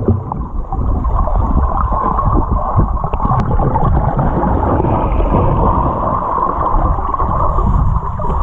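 Water sloshing and gurgling close to the microphone, a dense, dull and muffled churn with no clear strokes.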